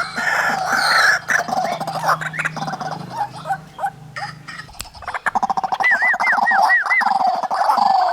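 White-breasted waterhens, a male and female pair, calling: dense rapid calls at first, then scattered short notes and a brief lull in the middle, then a fast run of notes with a few short rising-and-falling whistles.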